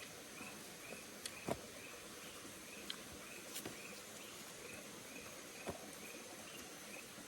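Faint forest ambience: a short high chirp repeating about twice a second over a steady high whine, with a few sharp clicks or snaps, the loudest about one and a half seconds in.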